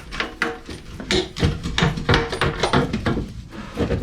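A rapid, irregular run of knocks and clanks from metal car parts and tools being handled, a few a second, some with a brief metallic ring.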